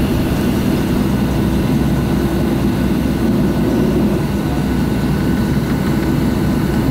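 Boeing 737-700's CFM56-7B turbofan engines running steadily at low power, heard inside the passenger cabin as an even drone with a low hum.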